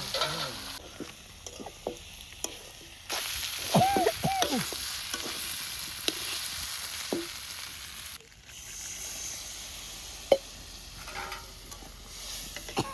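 Food sizzling in a hot pan while it is stirred, with clicks and scrapes of the stirring utensil against the pan. The frying hiss swells sharply about three seconds in and drops back about eight seconds in, and a few short squeals come about four seconds in.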